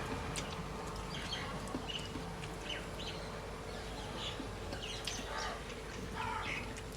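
Birds calling: short chirps several times a second over a faint steady background hum.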